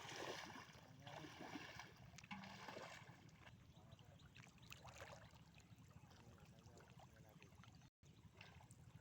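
Near silence: faint river water with a few light splashes and knocks.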